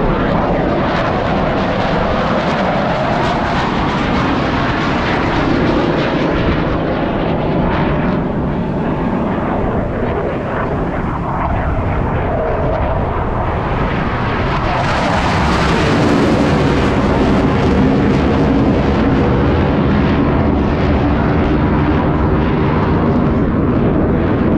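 Blue Angels F/A-18 Super Hornet jets flying by, a continuous loud jet roar whose pitch sweeps slowly as the aircraft pass. It swells and grows brighter about fifteen seconds in, as another pass comes closer.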